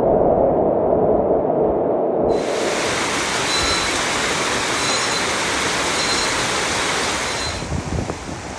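Loud, steady rushing storm noise from typhoon footage. About two seconds in it cuts abruptly from a dull rush to a brighter hiss, and it changes again near the end.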